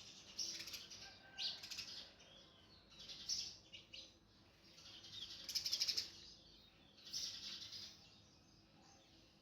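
Sunbird giving about five short bursts of high, rapid chirps and twitters, the loudest about two-thirds of the way through.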